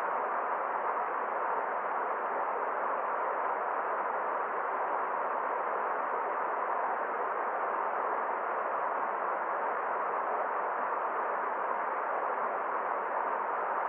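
Forest stream flowing: a steady, unbroken rush of water with no single event standing out.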